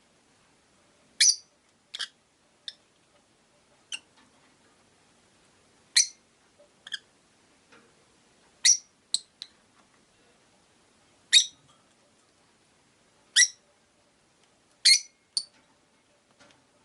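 Rosy-faced lovebirds giving short, sharp, high-pitched chirps, a dozen or so scattered irregularly with brief pauses between them, some in quick pairs.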